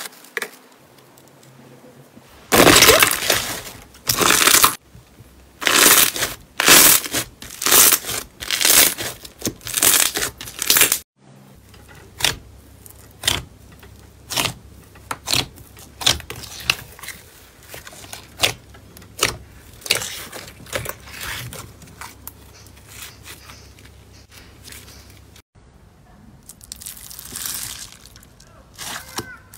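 Slime being pressed, squeezed and poked by hand: a long series of separate crackling, crunching squishes, cutting abruptly to new clips twice.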